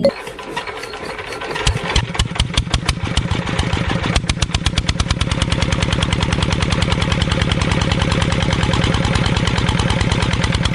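Small engine of a DIY mini tractor starting about two seconds in, then settling into steady running with its firing pulses coming evenly and faster.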